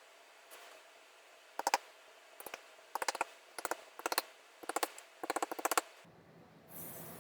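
Clusters of quick, sharp taps and clicks as a metal tack strip is started into place on a recliner's wing back, a few taps at a time over about four seconds. Near the end the background changes to a steady low hum with a brief hiss.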